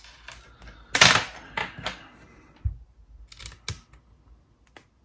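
Handling noise as a pair of headphones is picked up and handled: a short rustle or scrape about a second in, the loudest sound, then a string of separate small clicks and knocks.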